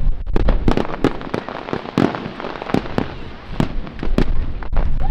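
Fireworks display: a rapid, irregular barrage of sharp shell bursts and reports, several a second, over a continuous low rumble.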